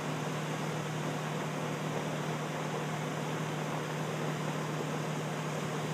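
A steady low mechanical hum over an even hiss, unchanging throughout; no thunder or other sudden sound is heard.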